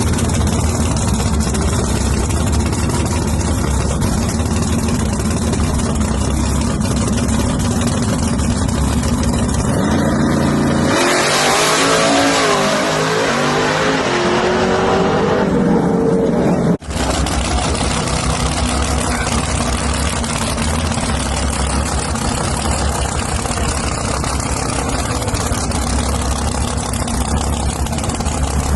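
Loud racing engine running steadily, then revving with rising pitch for about six seconds before the sound cuts off abruptly, then running steadily again.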